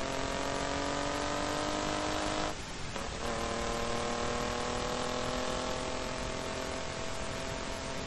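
BMW E28's swapped engine accelerating under load, its pitch climbing steadily. About two and a half seconds in it cuts out briefly for an upshift, then picks up at a lower pitch and climbs again, over a steady rush of wind and road noise.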